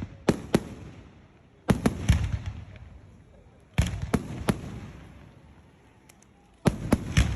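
Aerial fireworks shells bursting in quick clusters of two or three sharp bangs, four clusters in all. Each cluster trails off in a low rumbling echo that fades before the next.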